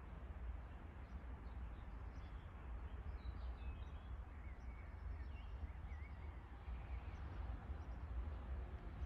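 Quiet outdoor ambience: a steady low rumble, with small birds chirping in short, high notes through the middle.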